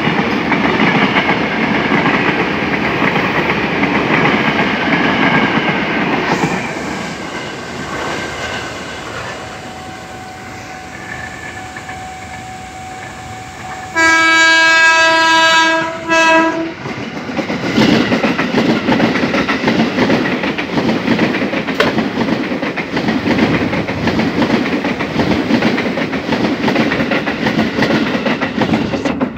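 A Tokyo Metro 6000-series electric commuter train runs away past the lineside with a falling whine over its wheel noise. After a quieter stretch, an approaching JR 205-series electric train sounds its horn about halfway through, one long blast and a short one. It then passes close by, its wheels clattering over the rail joints.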